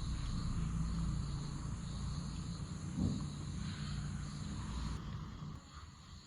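Insects chirring steadily in a high, even drone over a low rumble, with a single brief thud about three seconds in.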